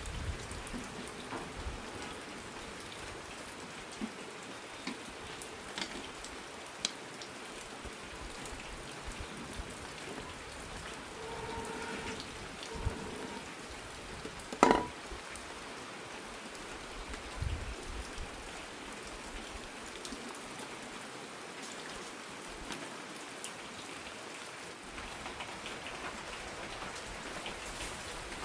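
Rain falling steadily, with scattered drips and a single sharp knock about halfway through.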